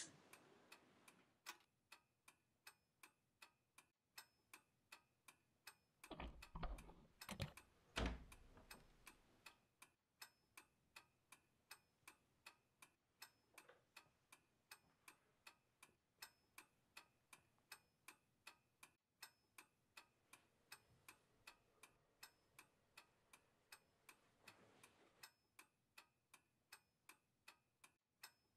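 Clock ticking faintly and evenly, about two ticks a second. About six to eight seconds in comes a brief, louder rustling with two sharp clicks.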